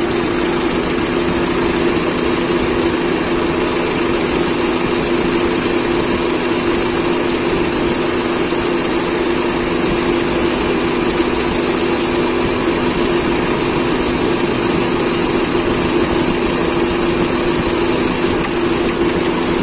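Honda City i-VTEC petrol engine idling steadily, heard from the engine bay, as an even hum with a steady low drone.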